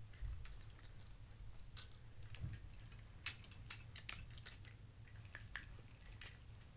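Scattered light clicks and taps from hands adjusting a toy diecast racing track and handling the diecast trucks, with a cluster of sharper clicks around the middle, over a low steady hum.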